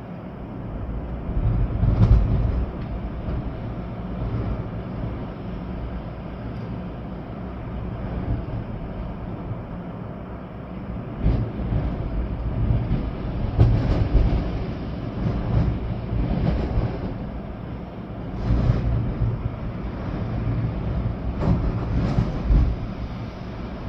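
Storm wind gusting through trees with rain falling, a steady rushing that swells into heavier low rumbling gusts several times.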